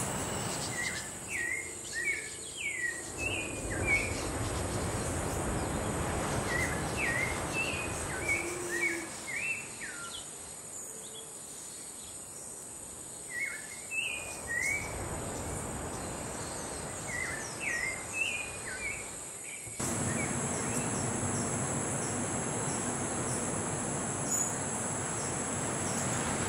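A songbird repeating a short phrase of quick chirping whistles four times, a few seconds apart, over a steady high-pitched insect trill.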